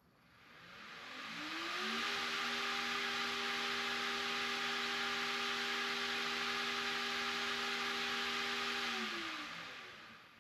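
Yarbo M-series robot mower's mower module spinning its razor blades up over about two seconds, running steady with a whirring sound and a little wind sound from the blades, then spinning down and stopping near the end.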